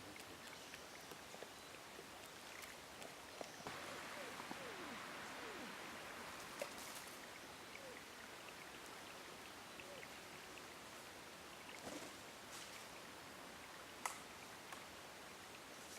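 Faint outdoor ambience with a steady hiss, in which a bird gives a few short, falling call notes a few seconds in. A few sharp clicks sound later on.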